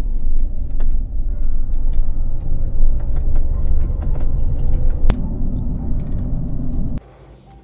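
Loud, steady low rumble of a vehicle driving, with scattered sharp clicks and rattles; it cuts off suddenly near the end.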